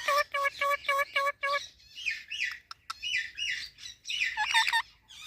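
Indian ringneck parakeet calling: a quick run of about eight evenly repeated pitched notes, about five a second, then after a short pause a string of squeaky, chattering calls with downward-sliding notes.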